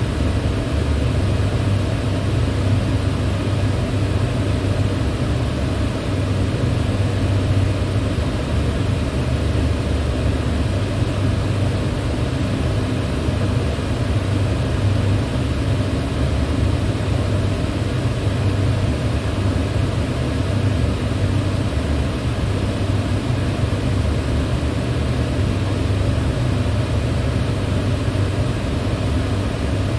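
Electric fan running steadily: an even, unbroken rush of air, heaviest in the low end, with faint steady hum tones.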